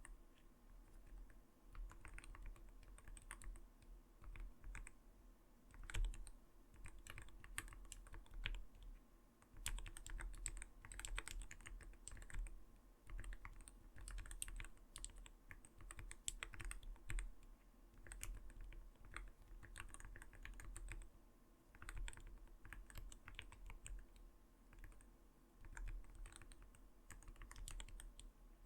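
Continuous typing on an Arbiter Studio Polar 65 mechanical gaming keyboard with clear keycaps: a soft, not-too-light clacking of keystrokes, irregular and dense, with one louder keystroke about six seconds in.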